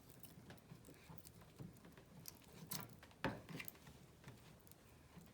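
Faint sticky clicks and small taps of a pine cone being rolled in corn syrup in a bowl, with one sharper knock about three seconds in.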